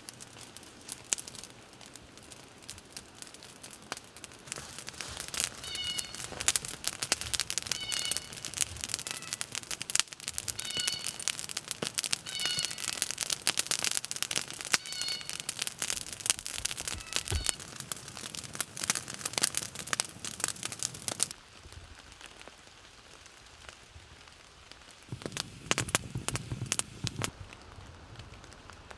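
Campfire crackling and popping steadily, with a few short high squeaks mixed in; the crackling thins out after about 21 seconds, and a low rustle follows near the end.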